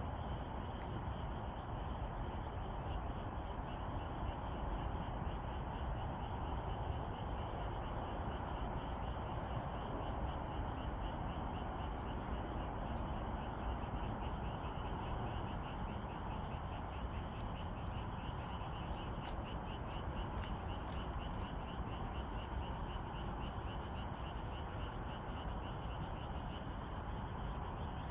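Dense chorus of many frogs calling at once, a steady mass of croaks with a fast pulsing trill running over it.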